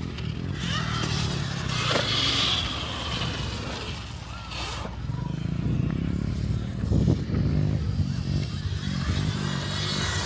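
A motor vehicle engine running steadily, with a few knocks and rattles.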